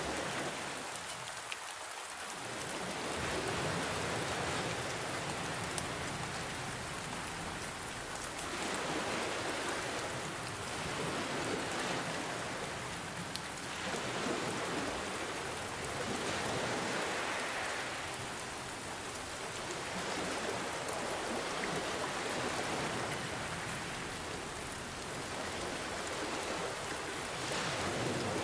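Steady rain mixed with ocean waves washing in, the rush swelling and ebbing about every four or five seconds.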